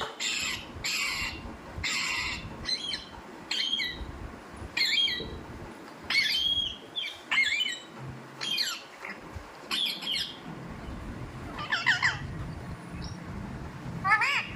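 Pet parrot calling: a string of short, harsh squawks about one a second, some with quick whistled notes that bend up and down, and a couple of short pauses.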